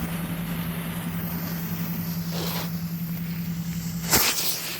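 A rolling ground firework burning with a steady hiss, a pop about halfway and a loud bang near the end, over a steady low hum that stops at the bang.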